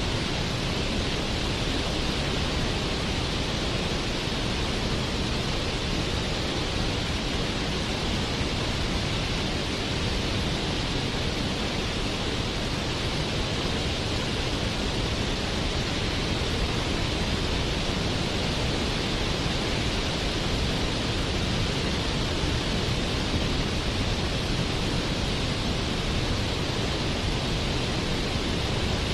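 Waterfall, a steady rush of falling water with no breaks or changes.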